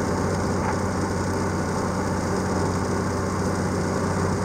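Train in motion heard from on board: a steady engine hum with running noise, unchanging in level.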